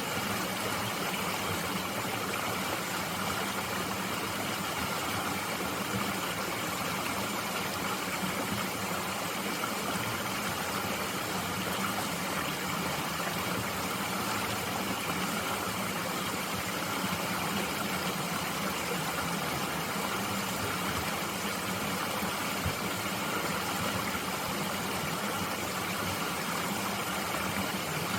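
Mountain stream flowing steadily over rocks, an even, unbroken rush of water.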